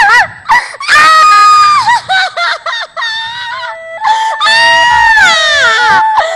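A person screaming in pain from an injection: a string of loud, high, wavering cries that swoop up and down, broken by short gaps.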